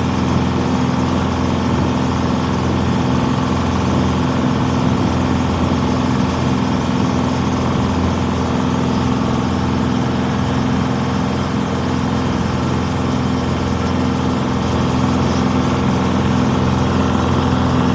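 Vehicle engine running steadily with an unchanging low hum, under an even rushing noise.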